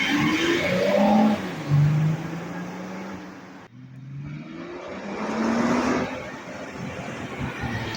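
BMW X5 E70 diesel engine pulling hard at full throttle, its pitch rising as it accelerates, twice, with a sudden cut a little before the middle.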